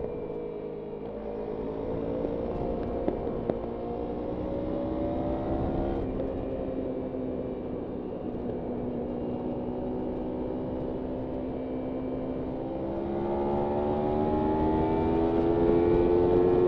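Kawasaki Ninja 300's parallel-twin engine riding on, its note climbing through the first few seconds, dropping about six seconds in, holding steady, then rising and growing louder near the end.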